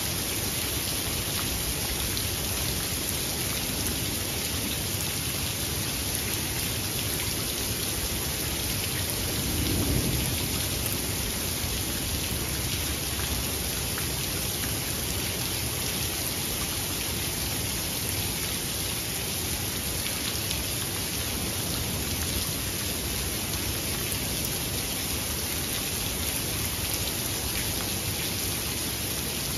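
Steady rain falling, with one low rumble of thunder swelling and dying away about ten seconds in.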